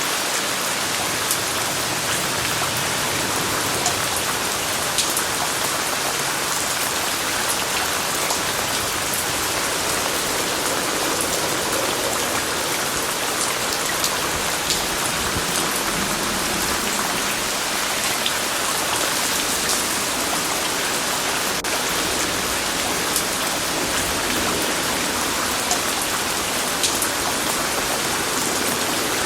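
Steady rain falling: a constant hiss with many scattered drop ticks.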